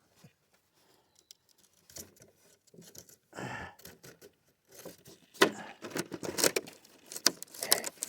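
Small rocks and grit clicking and scraping in irregular bursts: sparse at first, with a short rattle about halfway through, then busier clicking over the last few seconds.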